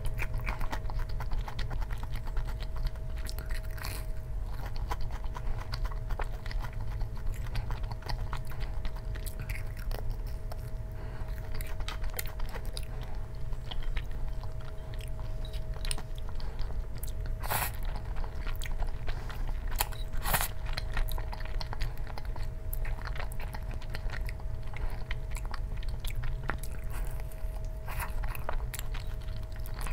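Close-miked chewing and biting of food, with many small wet clicks and a few sharper crunchy clicks, the loudest about 17 and 20 seconds in. A faint steady hum sits underneath.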